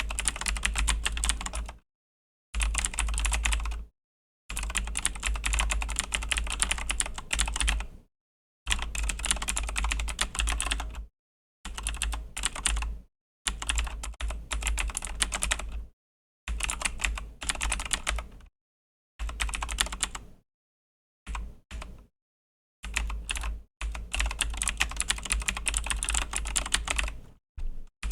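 Typing on a Razer BlackWidow V3 mechanical keyboard with clicky Razer Green switches: rapid strings of sharp keystroke clicks in runs of a second or two, broken by short pauses.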